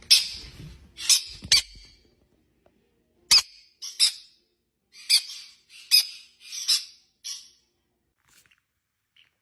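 Parrot giving a series of about nine short, sharp, high-pitched squeaky calls, roughly one a second, stopping near the end.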